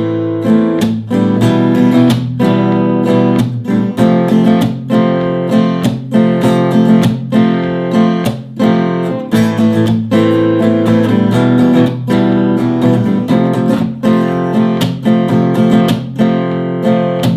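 Acoustic guitar strummed in a steady eighth-note campfire pattern. A sixteenth-note double stroke is worked in, and sharp muted scratch strokes on beats 2 and 4 cut through the ringing chords.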